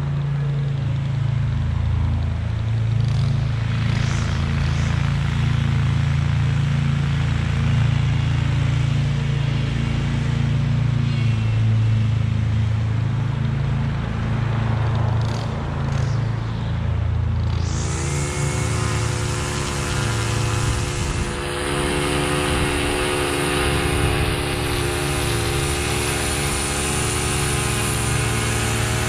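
Husqvarna V554 stand-on zero-turn mower running with a low engine hum. Its engine speeds up about two-thirds of the way through and holds steady at a higher pitch.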